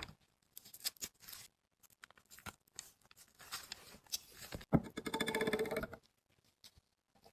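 Small clicks, scrapes and rustles from hands and tools working on a powder compact, with a sharp click about four and a half seconds in followed by about a second of rapid rasping scraping.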